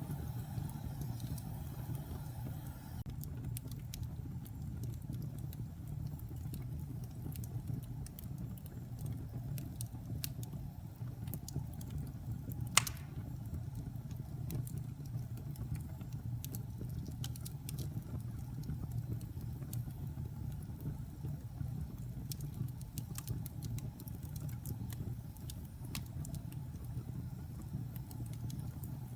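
Wood fire burning in a fireplace: a steady low rumble with scattered small crackles, and one loud pop about halfway through.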